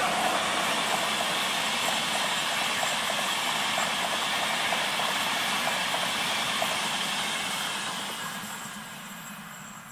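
Passenger train passing at speed: a steady rush of wheels on rails with many quick clicks, which fades away over the last two seconds as the end of the train goes by.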